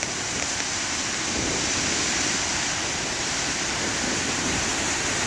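Ocean surf washing onto a beach: a steady rush of water noise that swells slightly about two seconds in.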